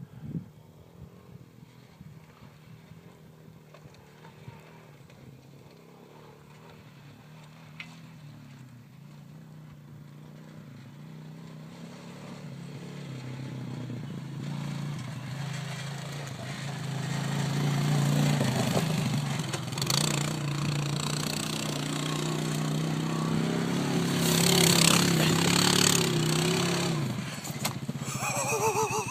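Quad bike engine running, growing steadily louder as it approaches, loudest over the last third before easing off slightly near the end.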